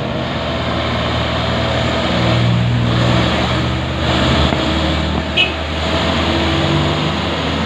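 Dump truck diesel engines running, a steady rumble with engine notes that shift in pitch as they labour. A brief high squeak cuts in about five seconds in.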